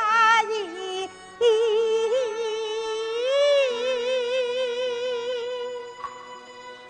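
Kunqu opera singing: a single high voice sings a short gliding phrase, breaks off briefly, then holds a long wavering note with heavy vibrato that fades about six seconds in, over sustained instrumental accompaniment.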